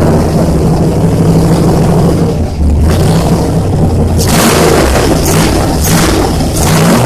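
Magnuson 2300-supercharged LSX 383 V8 running on its first start-up, on a base tune. In the second half it is revved in a series of short surges.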